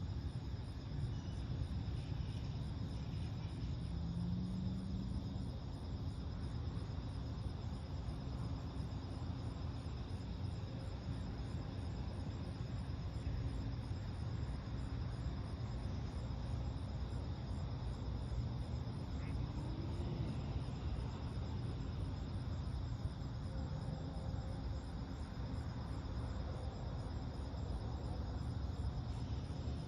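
Steady outdoor ambience: a low, even rumble of distant road traffic under a continuous high, pulsing chorus of crickets.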